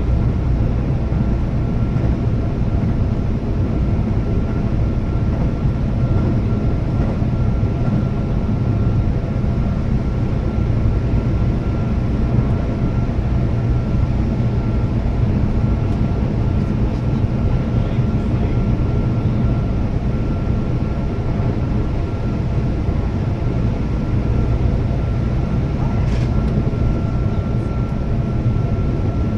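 Keihan electric train running at speed between stations, heard from on board: a steady low rumble of wheels on rail with a constant thin whine above it.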